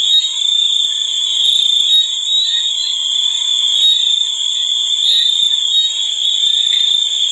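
A dense insect chorus: a steady, shrill, high-pitched buzz that does not let up.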